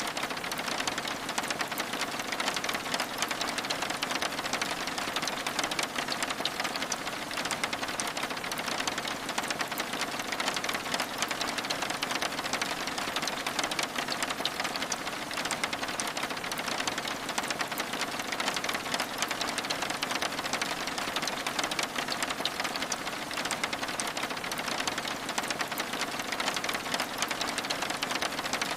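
Steady rain, a dense, even patter of fine drop ticks against window glass.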